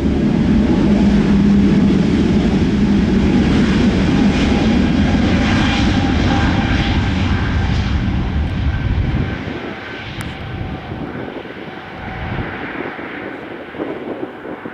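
Airbus A320neo jet engines at takeoff power, a loud, deep rumble with a steady whine above it, which falls away sharply about nine seconds in as the aircraft passes.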